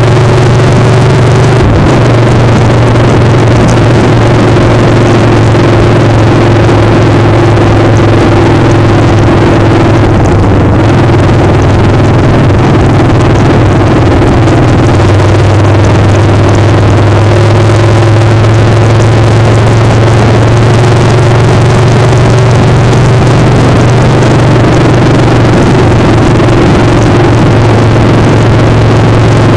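Motorcycle engine running at a steady pitch under heavy wind noise, as heard while riding; the engine note shifts slightly about two seconds in and again about halfway through.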